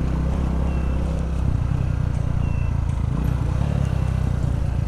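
Small single-cylinder motorcycle engine running steadily.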